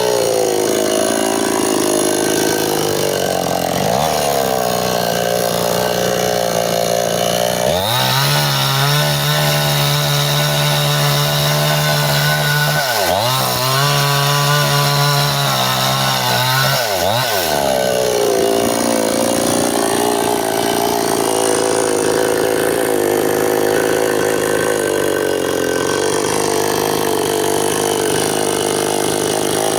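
Stihl two-stroke chainsaw running hard while bucking a bendo tree, its pitch wavering under the load of the cut. Partway through it holds a steady, higher pitch for several seconds, dipping briefly twice before going back to a wavering pitch.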